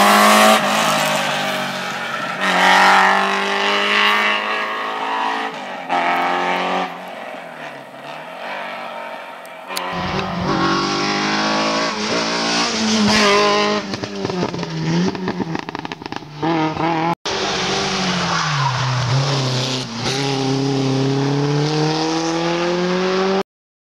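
Rally cars at full throttle, engines revving up and dropping back through gear changes, in several spliced passes. The sound changes abruptly about ten seconds in and again near seventeen seconds, and cuts off just before the end.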